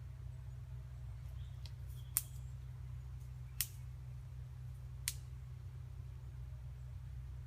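Three short, sharp clicks or snaps about a second and a half apart, over a steady low rumble.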